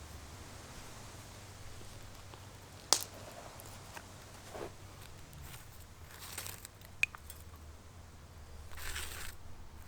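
Wood fire burning in a Solo Stove Titan fire pit, crackling quietly with two sharp pops about three and seven seconds in and a few brief hissing rustles.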